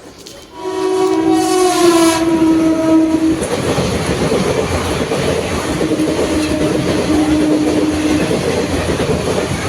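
Express train's horn blaring for about three seconds, its pitch dropping slightly, then the steady rumble and clatter of the train running through at speed. A fainter horn note sounds again partway through.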